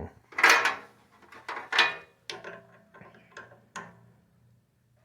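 Metal scraping and clicking from hand-working the mini metal lathe's tailstock and drill chuck. Two louder scrapes come in the first two seconds, then several lighter clicks.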